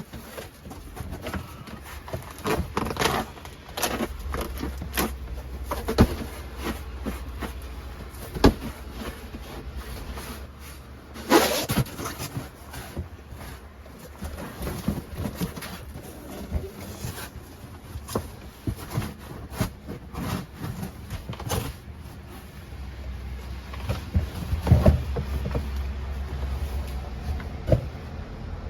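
Irregular knocks, clicks and clatter, with a louder burst about halfway through, over a low rumble that comes and goes.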